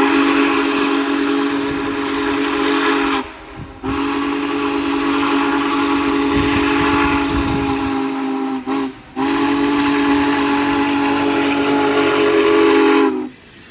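Union Pacific Big Boy steam locomotive's chime whistle sounding the grade-crossing signal: long, long, short, long. The long blasts each last three to four seconds, and a low rumble from the passing train lies under the middle.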